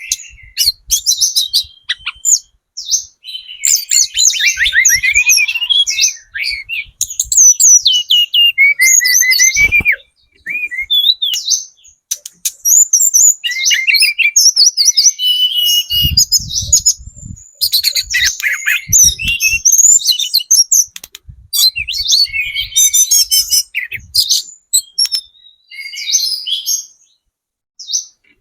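Tledekan gunung songbird singing continuously in long, fast chattering phrases of high whistles and quick falling notes, broken by brief pauses. A few dull low thuds come in around the middle.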